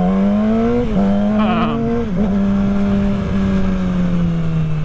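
Motorcycle engine pulling through the gears while riding: its pitch climbs, drops sharply about a second in and again near two seconds as it shifts up, then holds steady at cruise, over wind rumble on the microphone.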